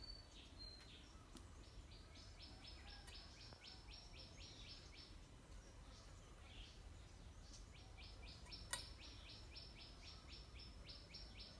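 Faint bird chirping in two runs of quick, evenly spaced high notes, about four or five a second. There is a single sharp click about three quarters of the way through.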